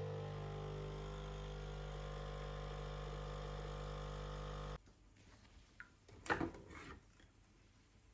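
A steady electric hum, like a kitchen appliance running, that cuts off suddenly about two thirds of the way through, followed about a second and a half later by a short clatter of knocks.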